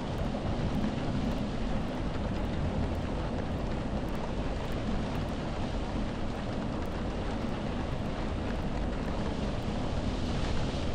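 Steady rainstorm ambience: a continuous dense hiss with a heavy low rumble and no separate drops or claps standing out.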